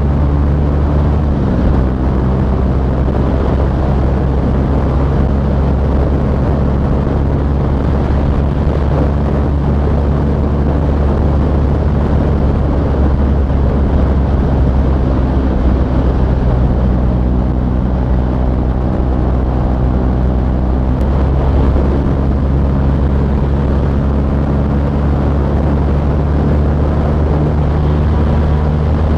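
2017 KTM Duke 390's single-cylinder engine running through a loud aftermarket SC Project exhaust while riding, a steady note that rises and falls a little with the throttle.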